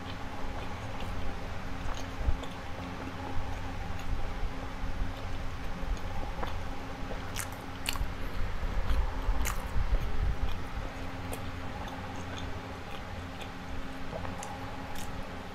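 Close-miked chewing and wet mouth sounds of a person eating, with many small sharp clicks scattered throughout.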